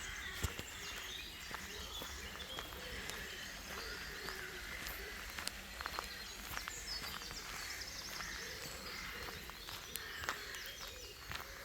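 Several songbirds singing at once, a busy mix of short chirps and trills, over a steady low background rumble, with scattered sharp clicks.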